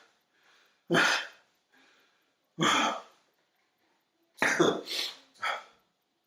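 A person coughing: about five short, dry coughs, spaced out at first and bunched close together near the end.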